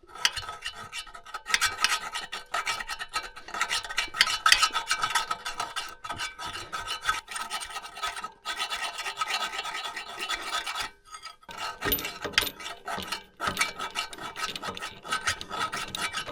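A round chainsaw file rasping in rapid back-and-forth strokes inside the hole of a steel 3/8 link, enlarging it to fit a pin. The filing pauses briefly about 8 and 11 seconds in.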